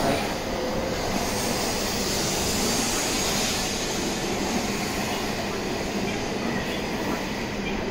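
Shinkansen bullet train moving along the station platform: a steady rushing running noise.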